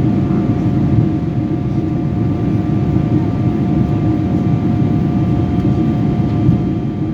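Steady drone of engine and airflow noise inside a jet airliner's cabin in flight, deep and even, with two faint steady tones above it.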